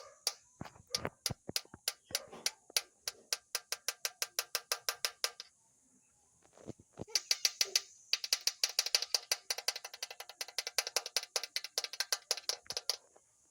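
Rapid trains of sharp clicks, at first about six a second, then after a short pause a faster run of about ten a second that stops near the end.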